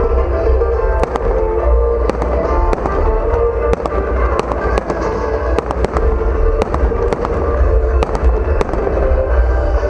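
Fireworks going off: a rapid, irregular string of sharp bangs and crackles over a deep rumble, with music playing loudly underneath.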